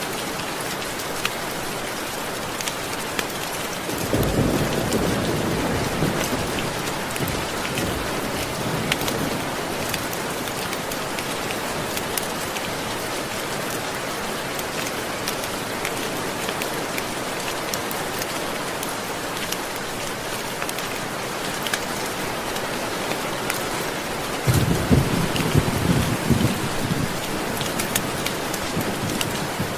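Steady heavy rain hissing on surfaces. Two low rolls of thunder swell up, one about four seconds in lasting several seconds, and a louder one near the end.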